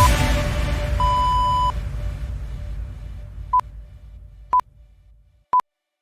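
Electronic countdown-timer beeps: one longer beep, then three short beeps about a second apart, while background music fades out.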